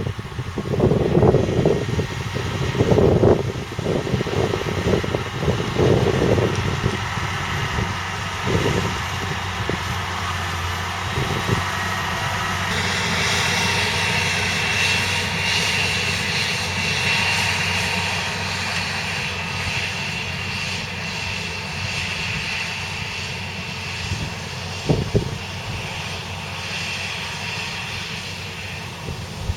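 Valtra T214 tractor's 7.4-litre six-cylinder diesel running steadily under load, with uneven low rumbling surges in the first several seconds. A steady high whine joins in about halfway through.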